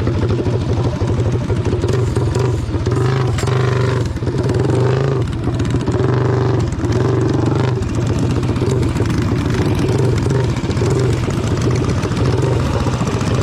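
Motorbike engine running steadily close by, its pitch rising and falling a few times between about three and eight seconds in.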